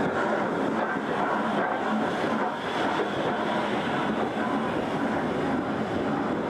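Heritage train on the move, a steady, even running noise with no break.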